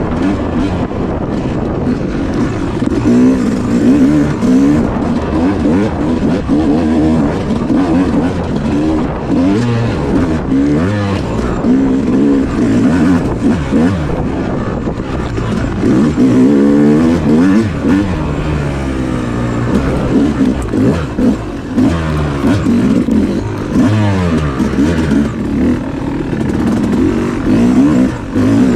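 Yamaha YZ250X two-stroke single-cylinder dirt bike engine being raced, its pitch rising and falling over and over as the throttle is opened and closed.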